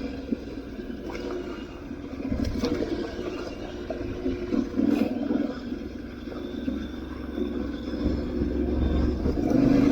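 Aprilia Tuareg 660's parallel-twin engine running at low speed over rocky ground, with a few sharp knocks from stones and the suspension. The engine gets louder near the end.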